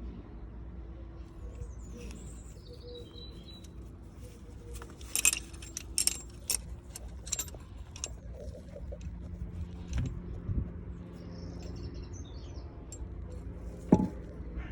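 Volkswagen engine running steadily at idle, with a cluster of sharp metallic clicks about a third of the way in and a couple of thuds later.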